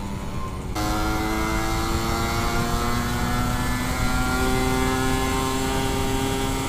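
Suzuki Satria 120 single-cylinder two-stroke engine heard from the rider's seat. The throttle is eased off at the start, then reopened about a second in, and the engine note climbs slowly in pitch as the bike pulls in gear. Wind rumble on the microphone sits underneath.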